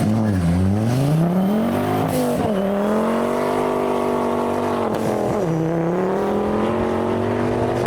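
A modified car's engine accelerating away under load, its pitch climbing and then dropping sharply twice, about two and a half and five seconds in, as it changes up a gear.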